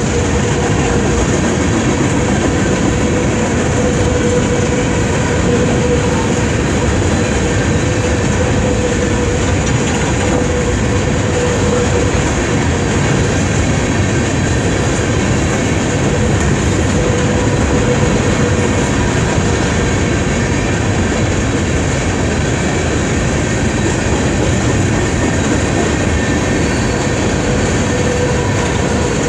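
Empty Union Pacific coal hopper cars rolling past on the track: a steady, loud rumble and rattle of steel wheels on rail, with a thin whine that comes and goes.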